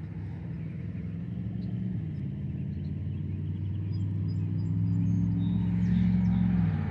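A motor vehicle's engine passing by, growing louder over several seconds, then dropping in pitch and fading as it goes past near the end. Faint bird chirps above it.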